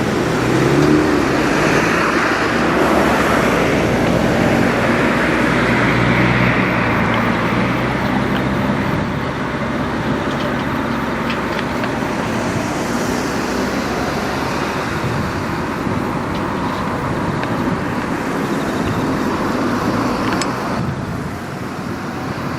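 Road traffic: car engines humming and tyres rushing, steady throughout with a louder swell in the first few seconds.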